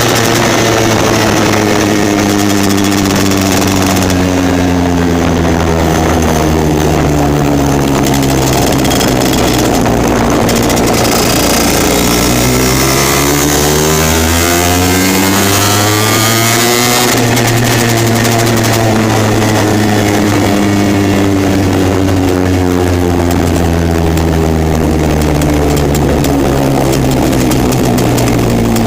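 Lambretta racing scooter's two-stroke single-cylinder engine running loud and continuously. Its pitch sinks slowly for several seconds, climbs again around the middle, then sinks once more.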